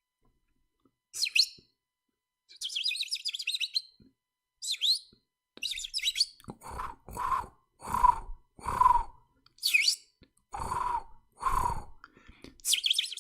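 Birds chirping and trilling, with a run of about six lower calls roughly once a second in the middle and more high chirps near the end.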